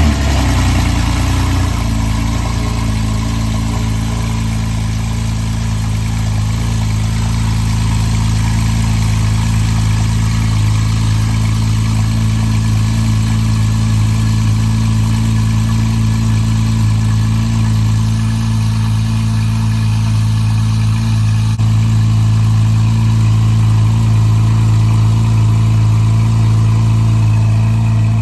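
Porsche 911 Carrera (991) 3.4-litre naturally aspirated flat-six on a cold start, heard at the quad exhaust tailpipes. It flares briefly as it catches, then idles steadily.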